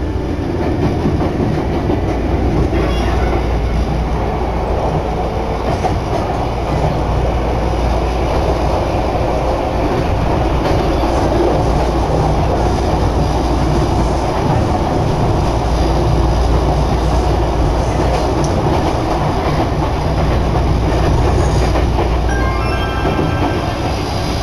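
Nagano Electric Railway commuter train running at speed, heard from inside the passenger car: a steady, loud rumble of wheels and motors.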